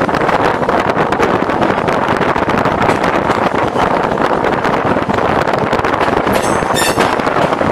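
Class S11 diesel-electric multiple unit running at speed, heard from the driver's cab: a steady, loud rumble and rattle of the moving train, with a brief high screech about six and a half seconds in.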